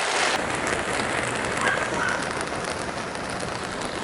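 Rain coming down steadily in a rainstorm: a dense hiss of many small drop impacts.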